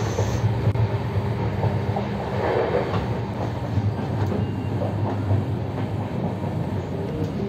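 Passenger train running, heard from inside a coach: a steady rumble with the rattle of wheels on the track and of the coach itself.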